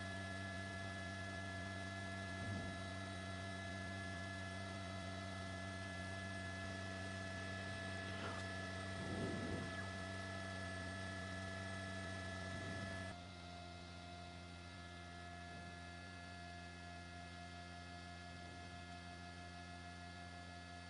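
A steady hum made of several fixed tones, like electrical or machine hum on the recording, which drops in level about thirteen seconds in. A faint voice is heard briefly around nine seconds.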